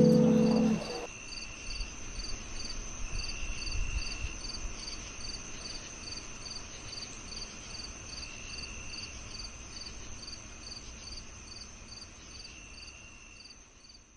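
Crickets chirping in a chorus: a steady high trill with evenly pulsed chirps about three a second over a faint low rumble, fading out near the end. The last notes of a guitar music track end about a second in.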